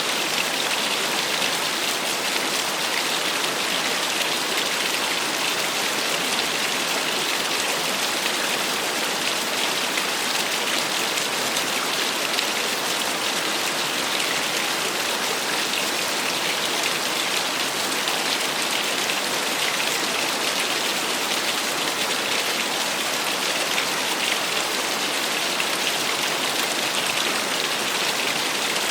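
Small waterfall: water falling and splashing in a steady, unbroken hiss.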